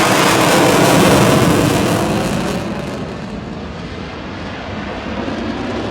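Eurofighter Typhoon's twin jet engines on afterburner: loud, rushing jet noise that is strongest about a second in, then fades as the jet moves away, with the high hiss dropping out about three seconds in.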